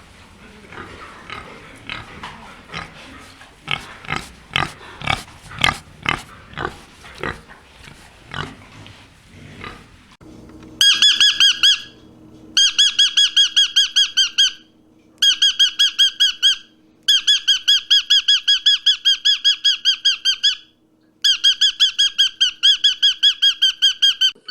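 Animal calls: first a stretch of irregular rough, noisy calls, then, from a little under halfway, a loud high-pitched rapid chattering call of about eight to ten notes a second, repeated in five bouts with short gaps between.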